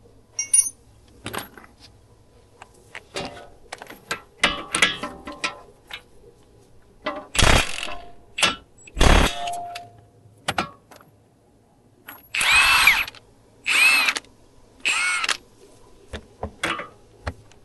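Metal tools clanking and clicking, then a power tool run in three short bursts about a second apart, each rising and falling in pitch.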